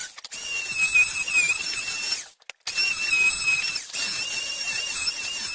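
A handheld power tool's motor whining steadily in three runs, with two short breaks between them.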